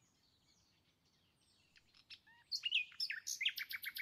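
A small bird chirping, faint at first, then from about halfway a quicker run of high chirps and a fast trill of repeated notes.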